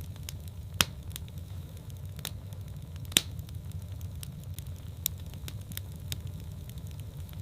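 Wood fire burning in a fireplace: a low steady rumble of flames with irregular sharp crackles and pops, two louder pops about a second in and about three seconds in.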